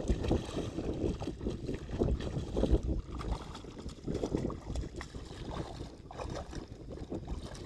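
Water sloshing and lapping, with wind rumbling and buffeting on the microphone.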